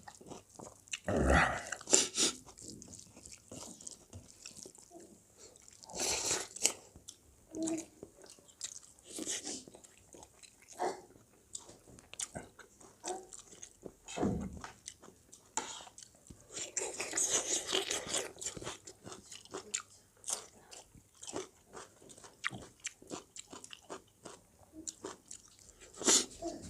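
People chewing and biting food close to the microphone, with crunchy bites and mouth clicks scattered throughout and a longer rustling, hissing stretch about two-thirds of the way in.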